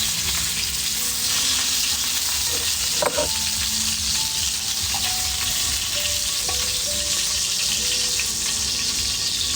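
Food sizzling steadily in the heat of a wood fire that is too hot, the food starting to burn. A single sharp knock about three seconds in.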